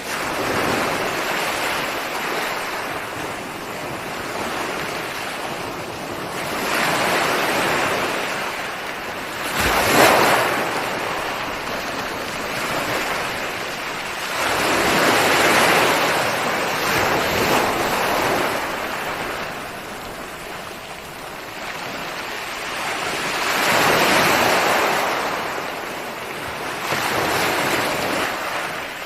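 Ocean waves breaking on a shore, a steady wash of surf that swells with each breaker every several seconds. The sharpest crash comes about ten seconds in.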